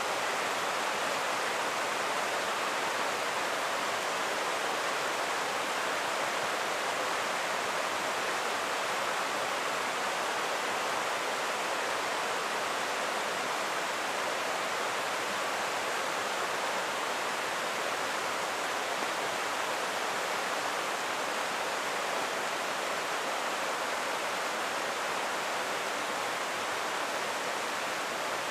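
A creek flowing with a steady, even rushing, with no separate splashes or footsteps standing out.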